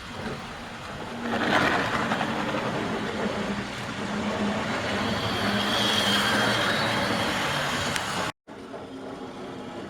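OO gauge model Jinty 0-6-0 locomotive running along the track: the whirring of its electric motor and the rattle of its wheels on the rails. The sound grows louder about a second in and cuts off abruptly near the end, after which the running continues more quietly.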